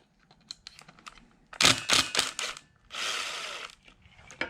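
Impact driver breaking loose stuck Phillips-head stator screws on a scooter engine: a few sharp knocks about a second and a half in, then a short noisy burst around three seconds in, with lighter clicks of the tool against the screws around them.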